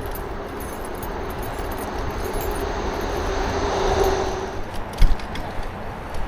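Traffic noise from the highway beside the path, swelling as a vehicle goes by about four seconds in, with wind rumble on the microphone. The e-bike rattles over root bumps, with a sharp knock about five seconds in.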